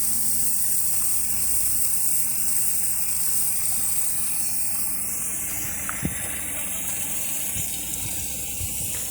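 Water hissing steadily out of a pressurised water service pipe under repair, with a short knock about six seconds in.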